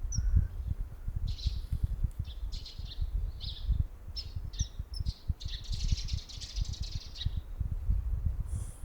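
Common kingfisher calling: a series of short, high, sharp notes, then a longer run of rapid notes about six seconds in. A low, uneven rumble runs underneath.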